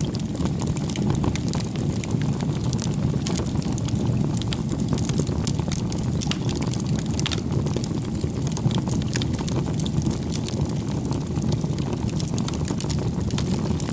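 Wood fire burning, with a steady low rumble of flames and frequent small, sharp crackles and pops.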